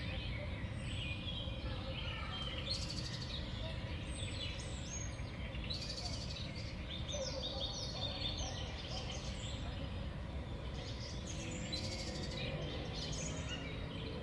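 Small songbirds at a feeder giving many short chirps and call notes, with several overlapping, over a steady low background rumble.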